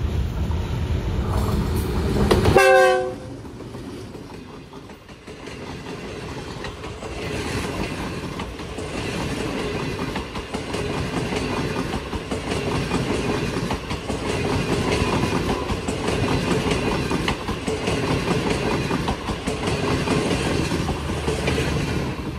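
Pakistan Railways GEU-20 diesel-electric locomotive running past with a heavy engine rumble, giving a short horn blast about two and a half seconds in. Then the passenger coaches roll by slowly, wheels clicking rhythmically over the rail joints.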